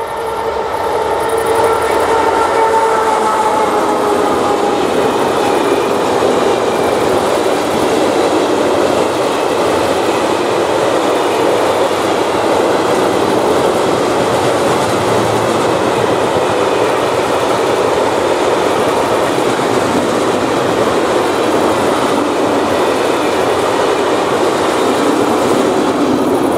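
A freight train hauled by an electric locomotive passes close by. In the first few seconds a whine from the locomotive falls slightly in pitch. After that comes the steady rumble and clatter of a long train of hooded freight wagons rolling over the rails.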